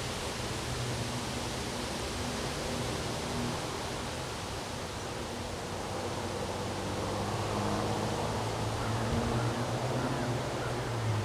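Strong wind blowing steadily, a broad rushing noise, with a low hum underneath that grows louder in the second half.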